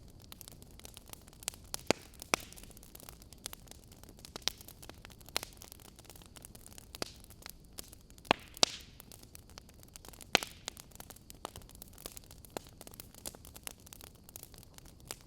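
Fire crackling: a soft steady hiss under irregular sharp pops and snaps, with a few louder pops about two seconds in and again around eight to ten seconds in.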